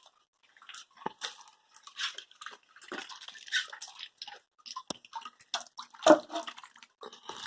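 Rainwater dripping and splashing in irregular drops, several a second, with a few louder splats.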